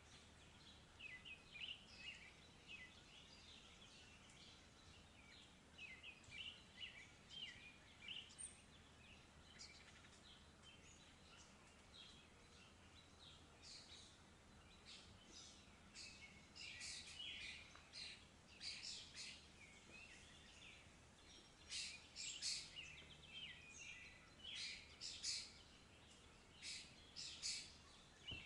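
Birds chirping and calling in many short, high notes: scattered and faint at first, busier and louder in the second half, over a low steady hiss.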